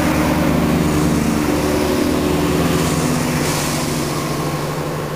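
British Rail Class 170 Turbostar diesel multiple unit passing, its underfloor diesel engines running with a steady hum over wheel and rail noise, easing off about four seconds in.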